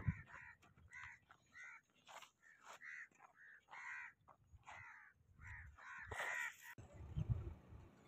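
A bird calling over and over in short, harsh notes, about two to three a second, faint, stopping near the end.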